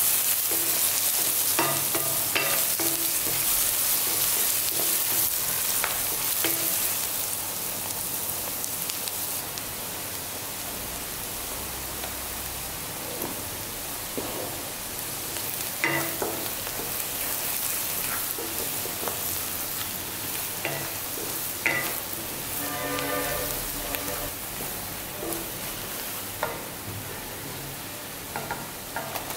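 Sliced onions, garlic and curry leaves sizzling in hot oil in a metal kadai: a steady frying hiss. A wooden spatula stirs them, scraping and tapping against the pan now and then.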